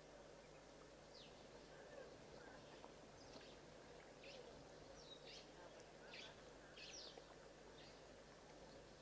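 Faint bird chirps: several short notes, each falling quickly in pitch, scattered through over a near-silent background hiss.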